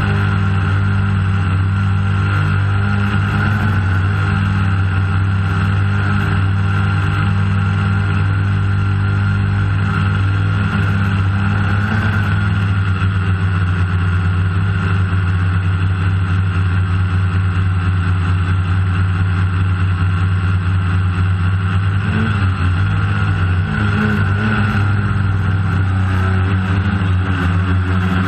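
DJI Phantom quadcopter's electric motors and propellers humming steadily in flight, picked up by the drone's own onboard camera, the pitch wavering a little now and then.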